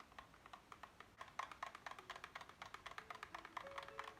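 Quick, light clicking of a utensil against a bowl, about five clicks a second, as sour cream thinned with milk is stirred; faint music underneath.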